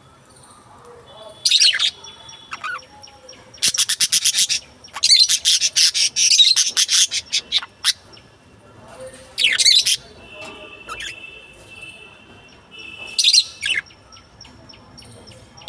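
Lovebirds chirping and chattering in separate high-pitched bursts, with a dense run of rapid chatter about four to seven seconds in.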